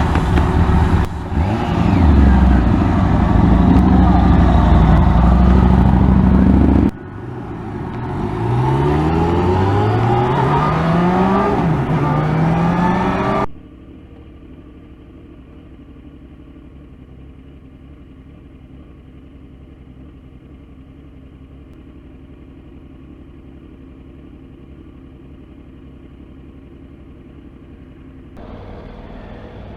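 Motorcycle engine and wind noise heard from a helmet camera. Around the middle the engine pitch rises several times in a row as the bike accelerates up through the gears. After about 14 s the sound drops suddenly to a much quieter, muffled steady hum.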